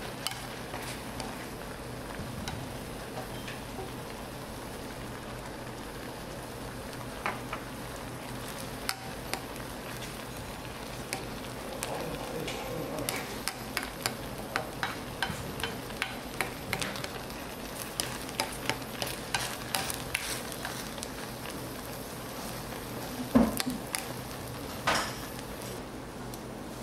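Egg fried rice sizzling as it cooks in broth in a stainless steel pot, with a black plastic ladle stirring and scraping it, clicking against the pot. The clicks come thick through the middle, and the loudest knocks come a few seconds before the end.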